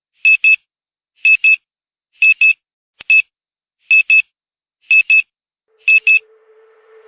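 Electronic beeps: short high-pitched double beeps repeating about once a second, seven times, one of them a single beep. A faint low steady tone fades in near the end.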